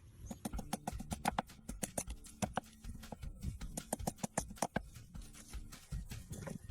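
Knife chopping on a cutting board: a quick, irregular run of sharp knocks, several a second, easing off briefly near the end.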